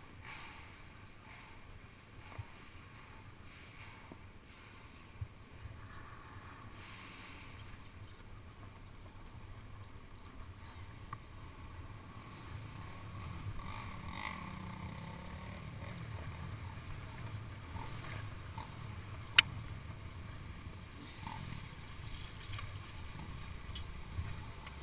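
Kawasaki KX500 two-stroke engine idling, a muffled low rumble that grows a little louder about halfway through; the rider fears it is overheating from running so long. A single sharp click about three quarters of the way through.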